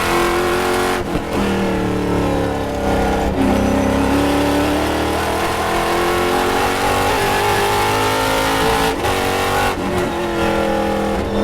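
Race car engine running hard on track, its pitch climbing under acceleration and dropping abruptly at several gear changes.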